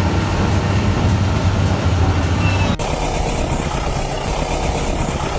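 Heavy machinery engine running steadily with a deep hum, then an abrupt change about three seconds in to a different, rougher engine sound.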